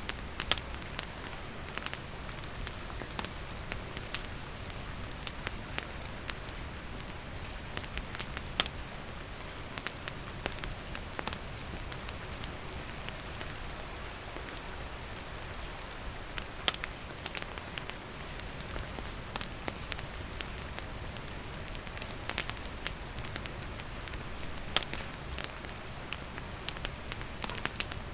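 Steady rain falling, with a wood campfire crackling in irregular sharp pops over it.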